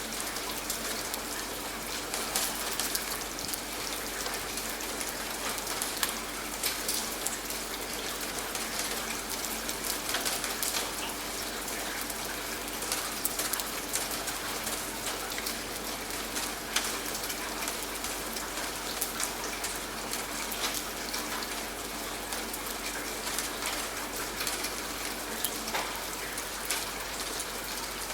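Steady rain falling, with many close, scattered drops pattering on a surface.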